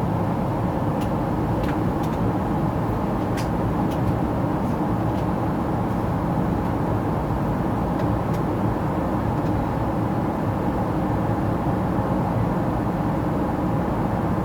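Steady cabin noise inside a Boeing 777-300ER in its climb: the rush of airflow over the fuselage and the drone of its GE90 engines, heard from a forward window seat. A few faint clicks come in the first few seconds.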